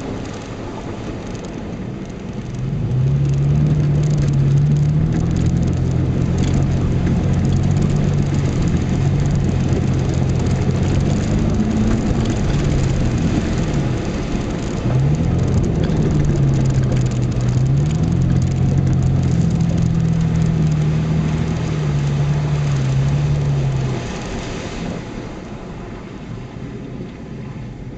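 An off-road 4x4's engine driving off-road, heard through the windshield from inside the cab. Its note rises and falls with the throttle from about three seconds in and eases off briefly midway, then drops to a quieter, lower run near the end as the vehicle slows.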